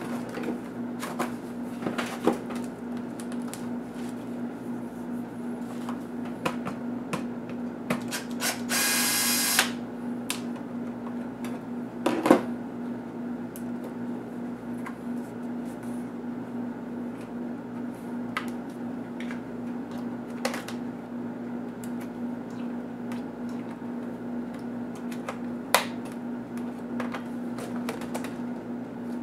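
Scattered clicks and knocks of an ASUS A6000 laptop's plastic case and parts being handled during disassembly, over a steady low hum. About nine seconds in there is a rasping noise lasting about a second, and a sharper knock follows about three seconds later.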